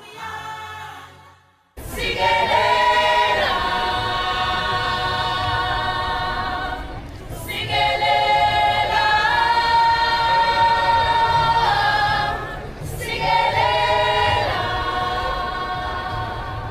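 A choir singing held chords in several voices, which starts after a short break about two seconds in, pauses briefly twice, and cuts off at the end.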